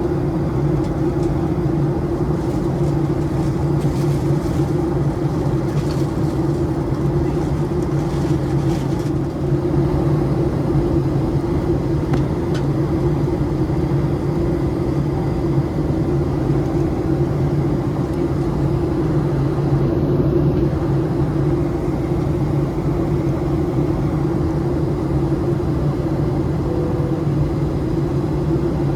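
Steady cabin noise of a Boeing 737-700 in flight: an even rushing roar with a steady low hum, unchanging throughout.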